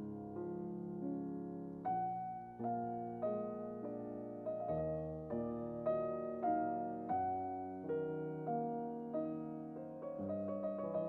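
Background piano music: a gentle melody of evenly spaced notes, about two notes a second.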